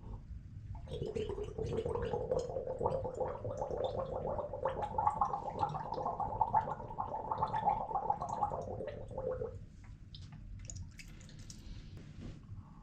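A person gargling water in the throat: a steady bubbling gurgle held for about eight seconds, then stopping, with fainter scattered sounds after.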